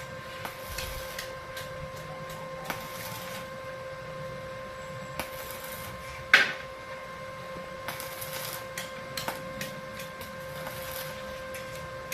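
Arc welding on steel: a welding machine hums steadily under short stretches of arc hiss and crackle, with scattered clicks. One loud metal clank rings out about six seconds in.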